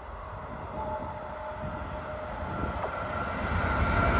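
Freight train hauled by an electric locomotive approaching along the track, its rumble growing steadily louder, with a high whine over it.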